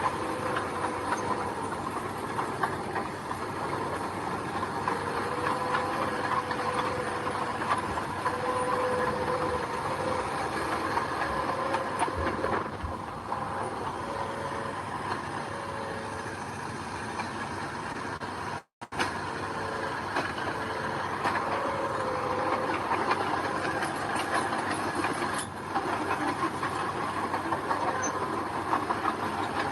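Bulldozer's diesel engine running steadily under load as it works, with a wavering squeal from the machinery; the sound drops out for an instant about two-thirds of the way through.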